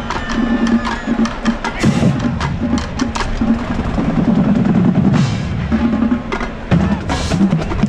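Marching band drumline playing a cadence: snare drums with sharp stick and rim clicks over bass drum hits.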